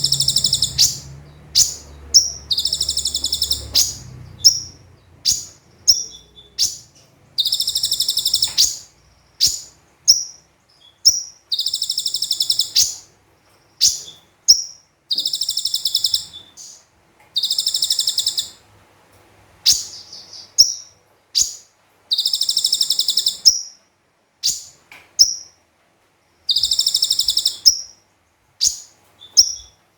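Konin (kolibri ninja) sunbird song on a bird-training tutor recording: very high-pitched, rapid trill bursts about a second long, repeating every few seconds, with short sharp chips in between.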